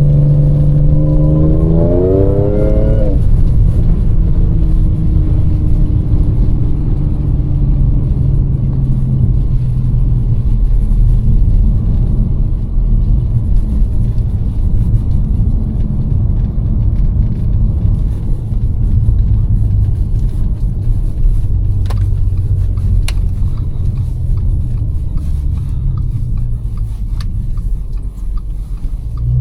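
Audi S5's supercharged V6 pulling hard, its pitch rising for about three seconds before easing off to a steady, low-pitched cruise with a constant rumble. It begins to rev up again right at the end.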